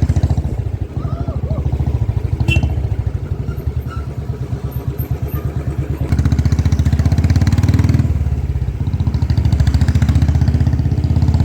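Motorcycle engine running while riding, a steady fast low thrum that gets louder about six seconds in.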